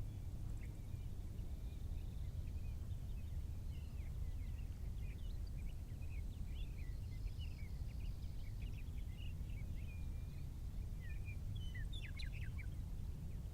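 Several small birds chirping and twittering over a steady low rumble. The calls grow busier a few seconds in and thin out near the end.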